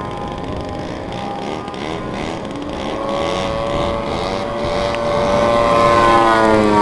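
Engine of a giant-scale radio-controlled aerobatic plane at high throttle on a high-speed pass, growing steadily louder as it comes in.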